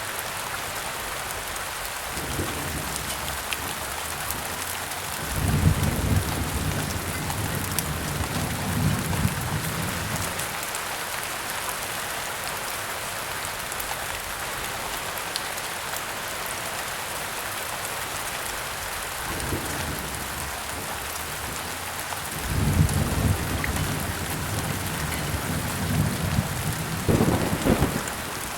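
Steady heavy rain on a surface, with thunder rumbling twice. The first rumble rolls in about five seconds in and lasts some five seconds; the second comes a little past twenty seconds and ends with a sharper crack near the end.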